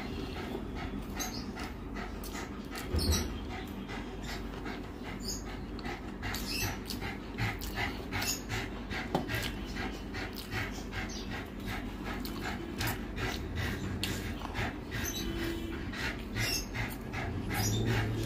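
Close-miked wet chewing and lip-smacking of rice and mutton curry eaten by hand, as a steady run of short mouth clicks a few times a second.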